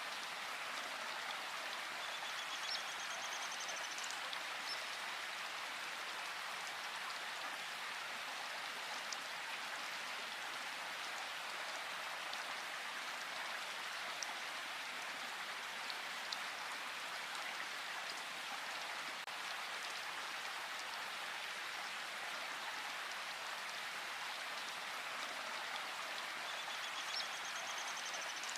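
Steady rain falling in a forest, an even hiss of drops without a break. A faint short bird call comes through about three seconds in and again near the end.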